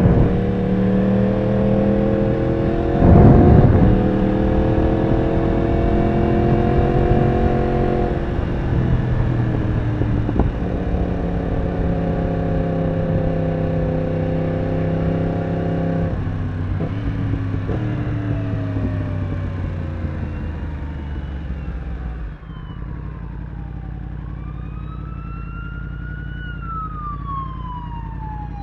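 Yamaha R1 inline-four engine running at a steady cruise under the rider, its note stepping down twice as the throttle eases, with a brief loud rush about three seconds in. From about 22 s the engine drops quieter and an emergency vehicle's siren wails up and down over it.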